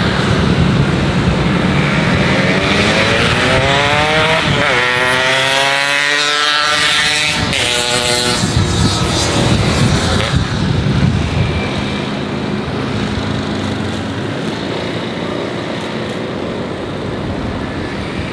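Boeing 777-300ER jet airliner passing low on its landing approach: a loud, steady jet-engine roar with a sweeping, rising tone a few seconds in that cuts off sharply about halfway, after which the roar eases off slightly.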